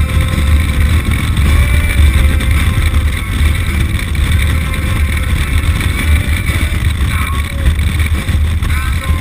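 Motorcycle riding along at a steady speed, its engine mixed with a heavy, steady rumble of wind on the microphone.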